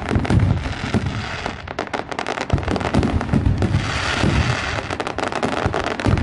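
Diwali firecrackers and fireworks going off: a dense run of sharp cracks and pops in the first couple of seconds, then more spaced cracks, with deep booms throughout.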